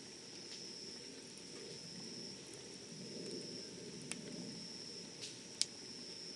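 Campfire burning with a steady low rumble of flames and a few sharp crackles, the loudest about five and a half seconds in. A thin, high, steady tone runs underneath and breaks off now and then.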